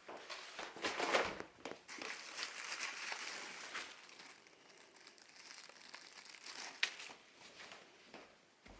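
Wallpaper being handled and crumpled: continuous crinkling and rustling with scattered sharp crackles, busiest in the first half.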